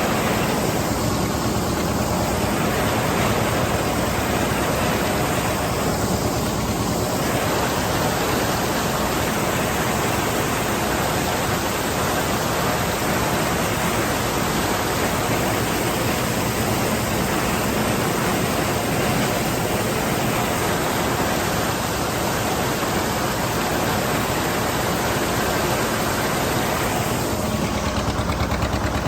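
John Deere 730 two-cylinder diesel tractor running under way, buried in a loud, steady rushing noise. Near the end its even, rapid putting stands out more clearly.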